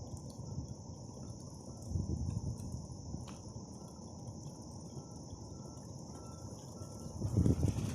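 Insects chirring in a continuous high-pitched trill, with a faint short note repeating over it. Two low rumbles, about two seconds in and near the end.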